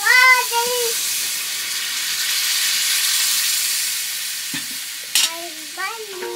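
Food sizzling steadily as it fries in a pan, swelling a little in the middle and then easing off, with one sharp click about five seconds in.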